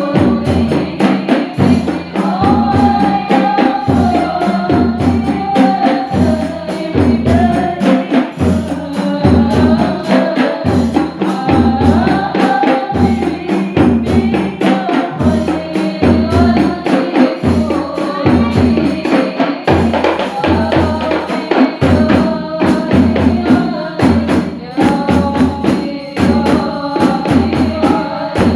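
Sholawat devotional song with a rebana frame-drum ensemble: a steady, deep drum beat a little over once a second, jingling hand percussion and a sung melody over it.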